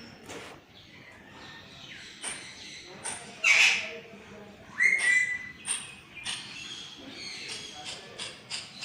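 Parrot calling: a series of short squawks and chirps, the loudest about three and a half and five seconds in.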